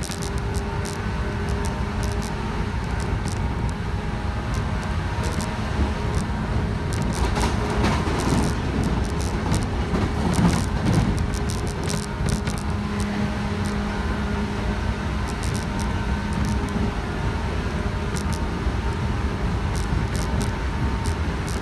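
Inside the carriage of a JR West 117 series electric train running at speed: a steady rumble of wheels on rail with a scatter of sharp clicks, under a steady motor and gear hum. The noise swells briefly about ten seconds in.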